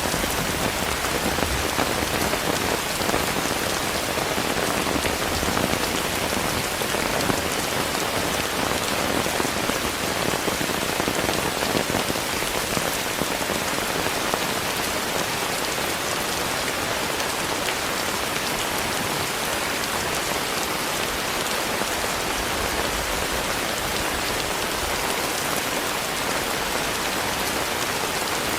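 Steady rain with a dense patter of drops, even and unchanging throughout.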